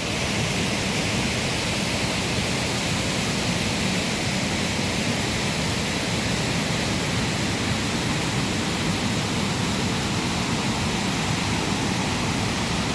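Steady rush of falling and flowing water at the bottom of Wachirathan Waterfall.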